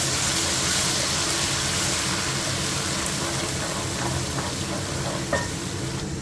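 Ground masala paste sizzling in hot oil with browned onions, stirred with a wooden spoon in a metal pot, with a couple of light knocks of the spoon against the pot.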